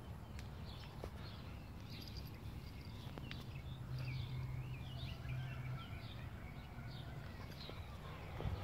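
Small birds chirping repeatedly over a steady low background rumble, with a low steady hum coming in about three seconds in and dropping away about three seconds later.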